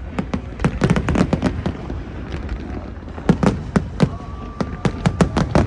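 Fireworks exploding in rapid, irregular bangs and crackles, several a second, over a continuous low rumble.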